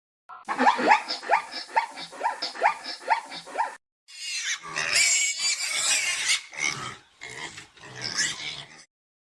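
Animal calls: a quick run of short rising cries, about three a second, then after a brief break a noisier stretch of overlapping cries.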